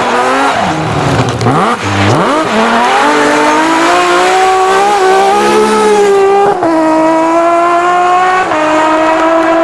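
Rally car engine revving hard, its pitch swooping down and up through a corner, then accelerating with a steadily rising note and two upshifts, heard as sudden drops in pitch in the second half.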